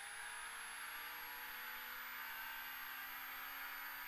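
Ford Fiesta R2 rally car's four-cylinder engine heard inside the cabin, pulling in one gear down a straight. Its steady note rises slowly.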